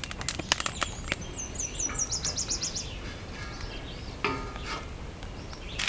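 Scattered light clicks and taps of camp cookware, with a bird's quick trill of about ten high repeated notes between about one and a half and three seconds in. Frying starts to sizzle right at the end.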